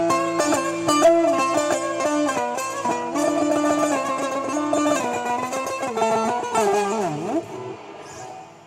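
A plucked string instrument playing an improvised solo melody of quick, ornamented notes. Around seven seconds in there is a sliding bend in pitch, and then the playing fades away near the end.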